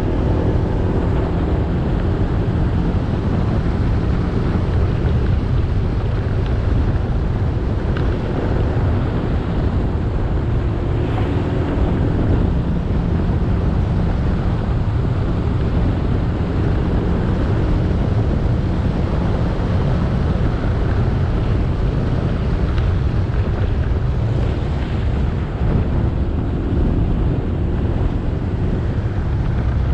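Motorcycle engine running steadily while riding, with wind rumbling on the action camera's microphone.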